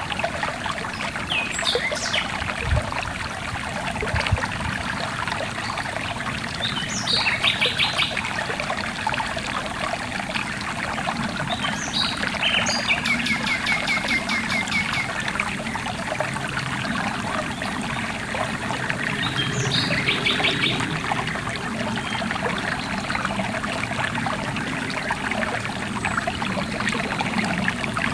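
Stream water trickling and splashing steadily, with a songbird singing four short phrases over it, each ending in a rapid trill of repeated notes; the longest phrase comes near the middle.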